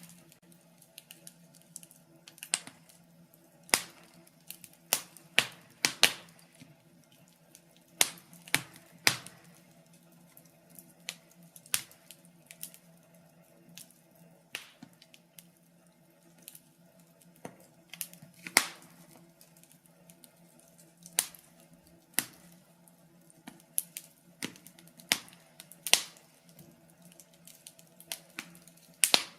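Wood fire crackling in a fireplace: irregular sharp pops and snaps, roughly one a second, over a faint steady low hum.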